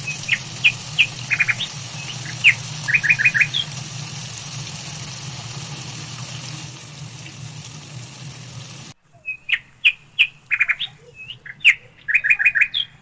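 Small bird chirping in short, sharp notes, some in quick runs of three or four, over a steady hiss and low hum that cut off about nine seconds in.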